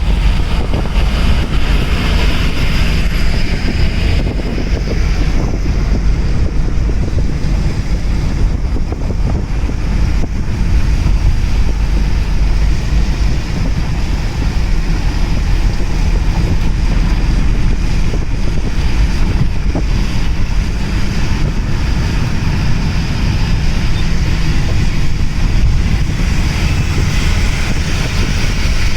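Steady, loud rumble and rush of a car driving: road noise with wind buffeting the microphone.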